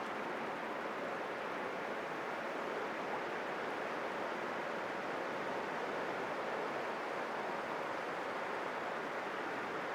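Sea surf washing steadily: a continuous, even rushing with no single wave crash standing out.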